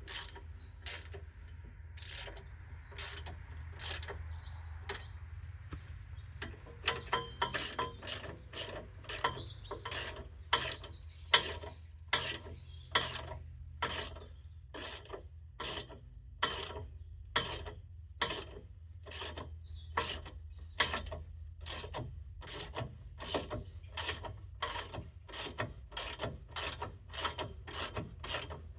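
Hand ratchet being worked in short back-and-forth strokes, clicking at about one and a half strokes a second after a sparser start, over a steady low hum.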